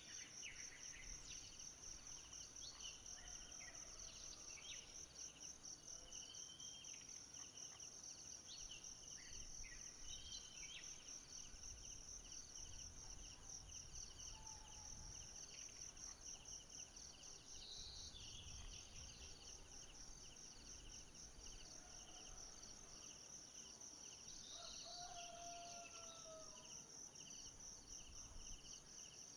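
Faint forest ambience: a steady, rapidly pulsing high-pitched insect chorus with a second, lower insect trill beneath it. Scattered short bird chirps, with a couple of whistled calls about 25 seconds in.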